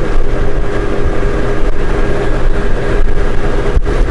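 Honda Gold Wing motorcycle under way: a loud, steady rumble of engine, road and wind noise.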